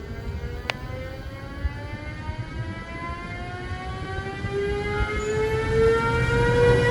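Locomotive drive whining with several tones at once that climb slowly and steadily in pitch while growing louder over a low rumble, as the train accelerates or draws nearer.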